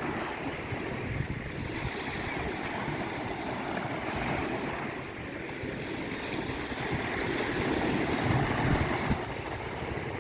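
Sea waves washing onto a shore in a steady surging hiss. One swell builds about four seconds in, and a bigger one near the end.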